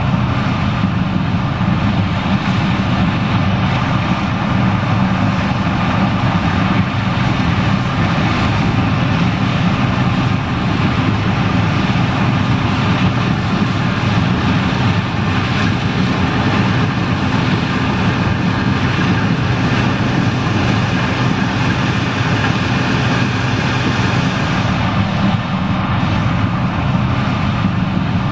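John Deere 9870STS combine running steadily while harvesting corn: an even diesel engine drone under a dense whir of machinery noise, unchanging throughout.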